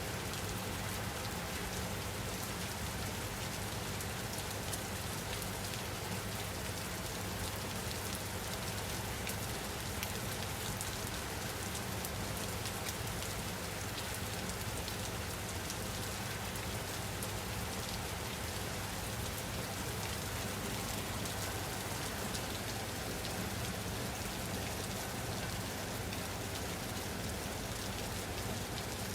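Steady rain: an even hiss of falling rain with individual drops ticking through it.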